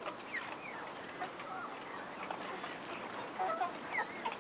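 Chickens clucking, with short scattered calls over a steady background hiss.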